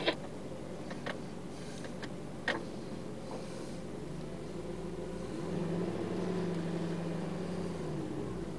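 Mercedes-Benz SLS AMG's 6.2-litre V8 idling, heard from inside the cabin, with a few light clicks in the first seconds. About five seconds in, the engine note firms up into a slightly louder steady hum for about three seconds as the car starts to creep forward.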